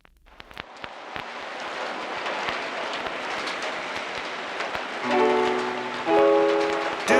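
Steady rain hiss with scattered drop clicks, fading in and building. About five seconds in, held electric guitar chords of the song's intro come in over the rain and get louder.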